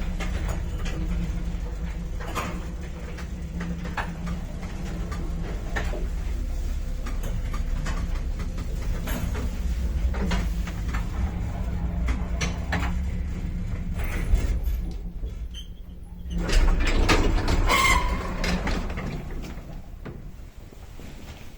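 A 1978 MOELZ passenger lift in motion: a steady low hum from the 4AN-160 two-speed drive motor with continual rattling and clicking from the car. Near the end comes a louder clatter with a short squeal, after which the sound drops off.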